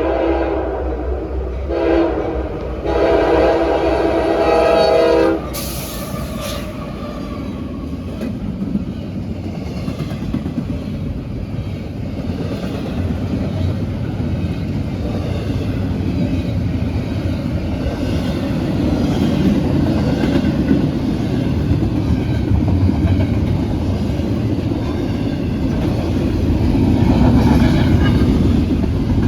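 A CSX freight locomotive's air horn sounds in blasts with two short breaks, the last cutting off about five seconds in. Then the intermodal train rolls past with a steady rumble and clatter of wheels on rail, growing louder near the end.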